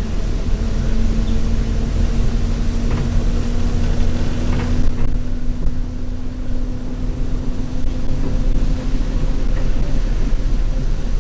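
Alexander Dennis Enviro200 bus heard from inside the saloon while under way: a steady low engine drone with a thin whine over it, and light knocks and rattles from the bodywork. The rushing noise thins out about halfway through, and the whine fades near the end.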